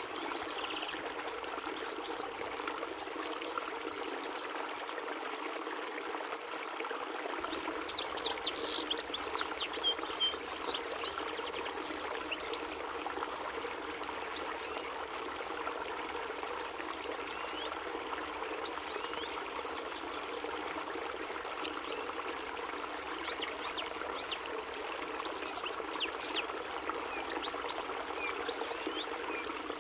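European goldfinch singing in bursts of quick, high twittering notes, busiest about a third of the way in and again near the end, over a steady sound of running water.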